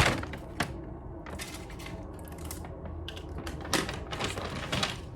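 Takeout food packaging being handled: a couple of sharp clicks at the start, then bouts of rustling and crinkling.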